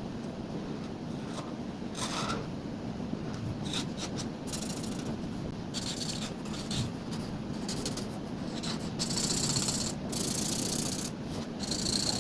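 Coloring strokes on paper: a coloring tool rubbing back and forth in short scratchy runs, with a longer run about nine seconds in, over a steady low background hum.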